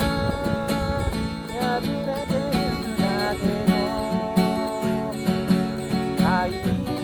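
Acoustic guitar strummed in a steady rhythm, with a held melody line over it that bends in pitch now and then: an instrumental passage of a song.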